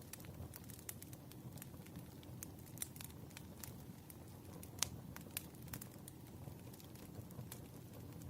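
Wood fire crackling: irregular sharp pops and snaps over a low, steady rumble of burning logs, with one louder pop about halfway through.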